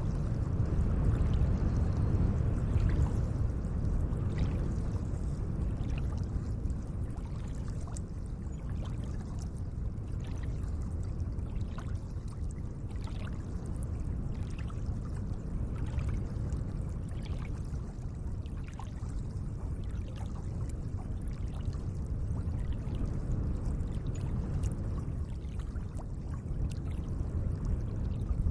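Gentle lake water moving in a steady low wash, with many small irregular splashes and drips.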